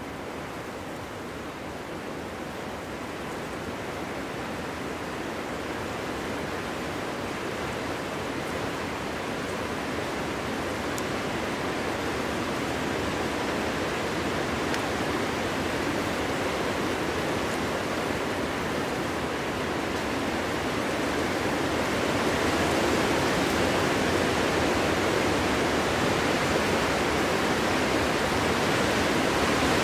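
Wind blowing as a steady rushing, swelling slowly louder over the whole stretch, its hiss reaching higher toward the end.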